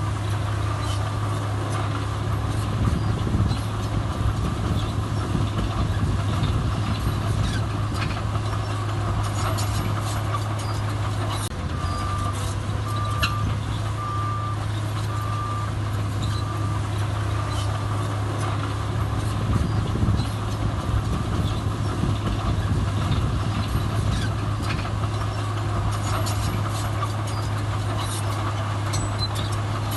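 Heavy diesel earthmoving machinery running steadily, with a reversing alarm beeping about once a second at the start and again for several seconds in the middle.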